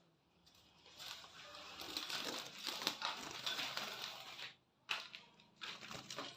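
Rustling and crinkling handling noise, loudest from about one second in until about four and a half seconds, followed by a few sharp clicks.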